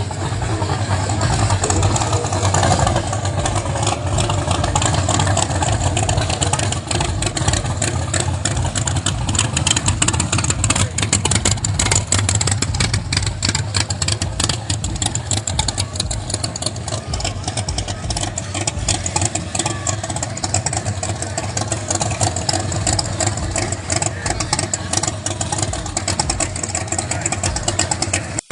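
A car engine running loudly, idling with some revving; it runs throughout with a rapid, uneven pulsing.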